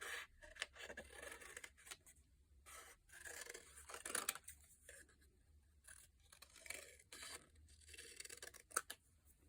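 Scissors cutting paper: a run of faint, uneven snips and rasps as a shape is cut out.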